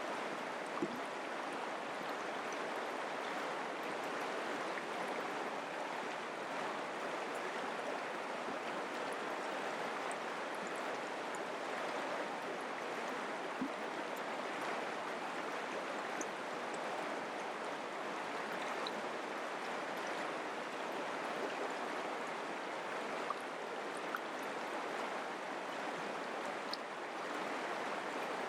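Mountain creek flowing steadily over rocks, an even rushing babble with a few faint splashes and ticks.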